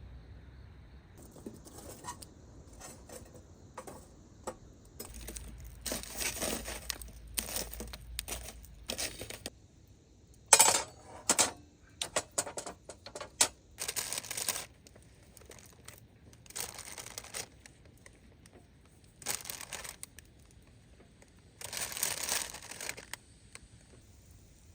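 Intermittent crinkling and tearing, as of packaging or a plastic bag being handled and torn open, in short bursts. There is a sharp knock about ten seconds in. Crickets chirp steadily in the first second.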